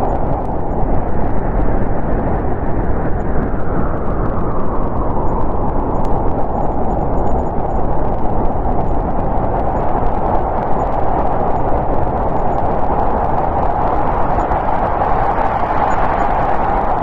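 Snowstorm wind blowing steadily as a deep rushing roar. A higher howl in it fades a few seconds in and swells back near the end.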